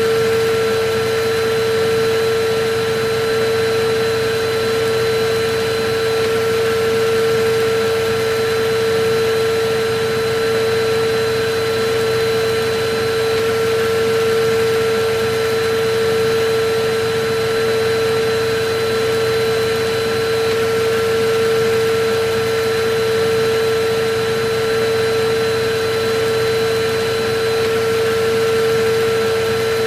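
Electric vacuum cleaner running steadily: a constant whine over an even rushing of air.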